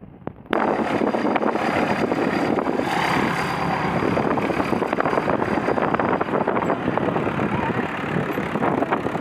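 Loud, rough vehicle running noise mixed with heavy wind buffeting on the microphone, cutting in abruptly about half a second in.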